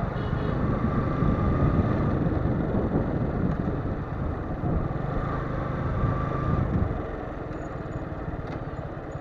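Motorcycle engine running as the bike rides along. The engine sound drops in level about seven seconds in.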